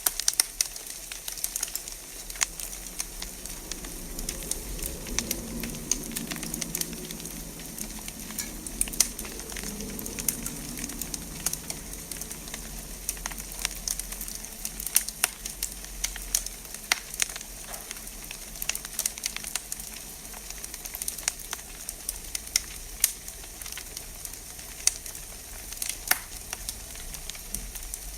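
Wood fire in a fireplace crackling: frequent sharp pops and snaps over a steady hissing sizzle.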